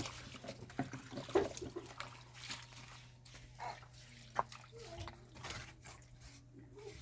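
Water splashing and trickling with scattered small knocks and clinks, over a low steady hum.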